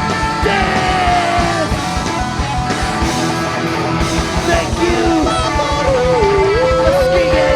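Live rock band playing loudly: drums, bass and guitar, with a lead line that slides and bends in pitch over a steady beat.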